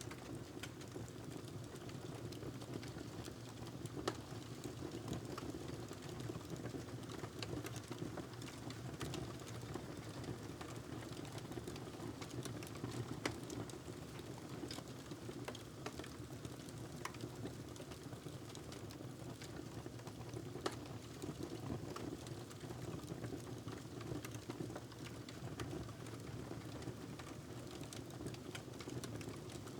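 Wood fire crackling in a fireplace: a steady low rumble of burning with scattered sharp pops and ticks, a few of them louder.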